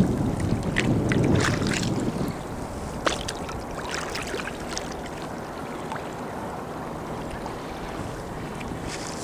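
Sea water lapping and splashing against a kayak's hull, with short scattered splashes. A low wind rumble on the microphone makes the first two seconds louder, then it settles to a steady softer wash.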